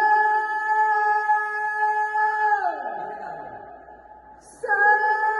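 A voice holding a long, steady high note, which slides down in pitch and fades out about three seconds in; a second held note starts near the end.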